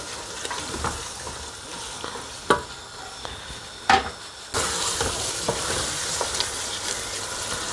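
Chicken pieces frying in masala in an aluminium pot, sizzling while a wooden spoon stirs and scrapes them, with two sharp knocks near the middle. The sizzle grows louder a little past halfway.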